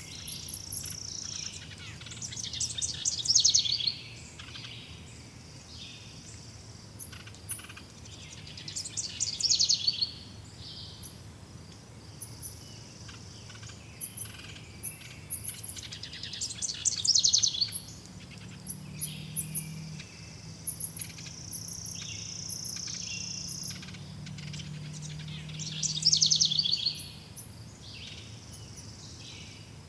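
Forest birdsong: one bird repeats a short, loud, rapid song phrase about every seven or eight seconds, each falling in pitch, while fainter high chirps go on throughout.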